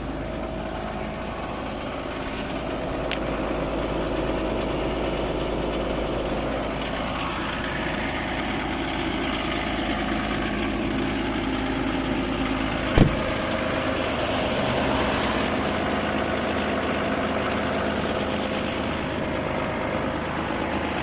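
V6 TDI diesel engine idling steadily just after a cold start, having stood unused for a week. One short thump about 13 seconds in.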